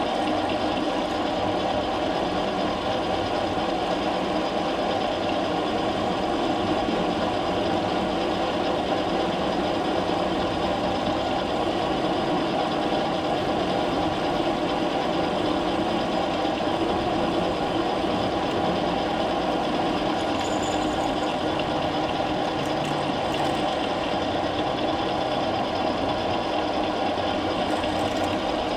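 Metal lathe running steadily, a constant machine hum with several steady tones, while a steel bar held in a collet is drilled full length for a 5/16-18 thread.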